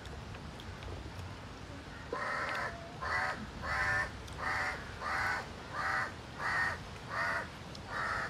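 A bird calling over and over: about nine evenly spaced calls, roughly one every two-thirds of a second, beginning about two seconds in.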